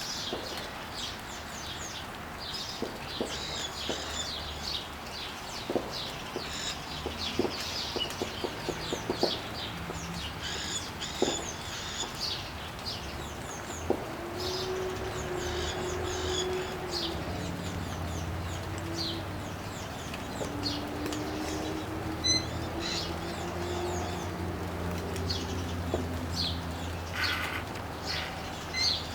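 Caique parrots calling in many short, high chirps and squawks, with a run of sharp clicks in the first ten seconds or so. A steady low hum lies underneath, and through the middle a low humming tone wavers slowly in pitch.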